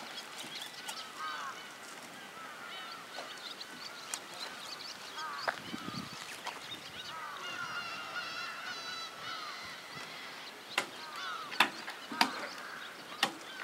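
Birds calling over and over in short, repeated calls. A few sharp knocks come in the last few seconds.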